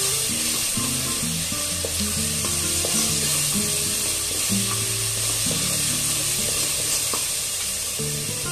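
Garlic paste frying with mustard and cumin seeds in hot oil, with a steady sizzle as a wooden spatula stirs it around the pan.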